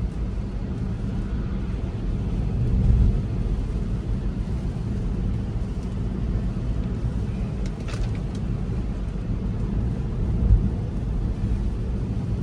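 Road and tyre noise inside a moving Tesla Model 3's cabin on wet roads: a steady low rumble, with a brief higher tick about eight seconds in.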